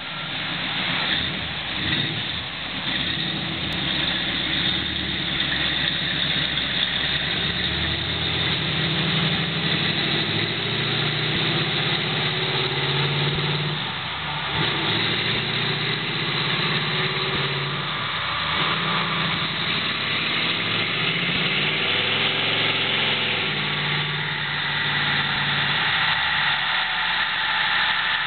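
Chevy 350 small-block V8 in a Porsche 914 running on a chassis dynamometer during a dyno pass. The engine note rises and falls, dips briefly a couple of times around the middle, and climbs in pitch near the end.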